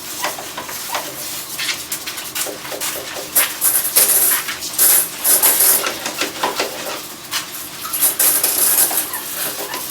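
Irregular clattering: many small sharp knocks and clinks over a hissing noise, like objects being handled and knocked together, cutting off suddenly near the end.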